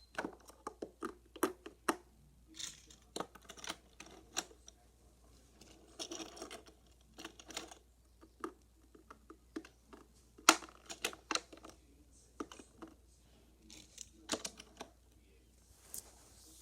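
Die-cast toy cars clicking, tapping and clattering against a plastic Hot Wheels track playset, in irregular runs of sharp clicks with short bursts of rolling or scraping between.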